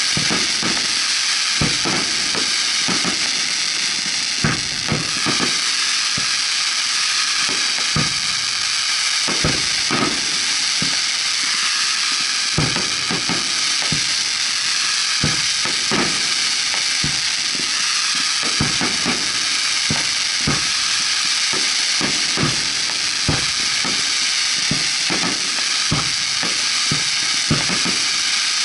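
Fireworks firing at close range from the launch barge: a constant, dense crackling hiss of burning sparks, broken by a deep boom every half second to a second as shells are fired and burst.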